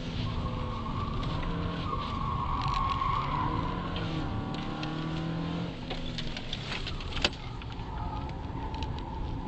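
Fiat Punto Sporting's engine heard from inside the cabin at track speed, its pitch rising and falling with the throttle and dipping about six seconds in. A single sharp click comes about seven seconds in.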